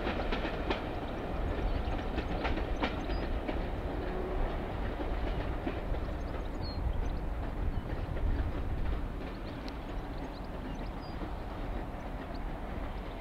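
A rake of railway passenger coaches rolling past, their wheels clicking over the rail joints. The clicks are thick at first, then thin out, and the sound drops in the last few seconds as the train draws away.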